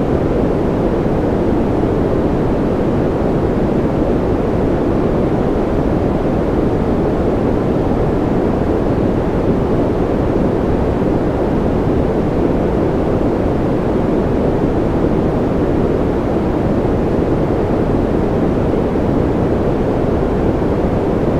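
Steady, unbroken noise played as white noise for sleep, a deep, even rushing hiss with most of its weight low and little treble. It does not change at all.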